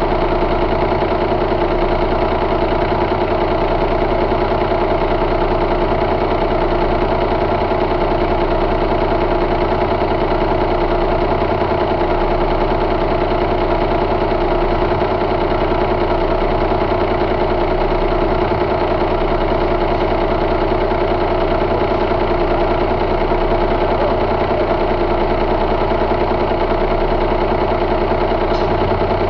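2004 Cummins ISX 15-litre straight-six diesel engine idling steadily, with no change in speed.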